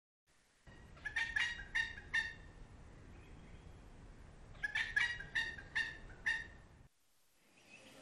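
Red wattlebird calling: two quick runs of about five harsh notes each, a few seconds apart, over low background noise.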